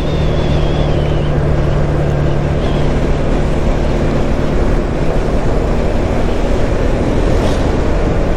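Motorcycle engine running at a steady speed while riding, with a constant rush of road and wind noise.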